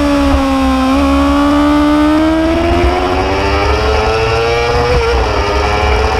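Motorcycle engine running under way: the revs dip about a second in, climb gradually for several seconds, then ease off near the end, over a steady low rumble.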